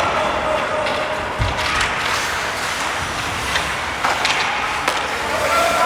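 Ice hockey play: skate blades scraping across the ice, with sharp clacks of sticks and puck and a low thud about a second and a half in.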